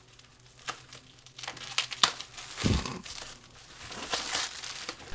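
Crinkling and rustling handling noise with scattered sharp clicks, the loudest click about two seconds in and a low thump just after it.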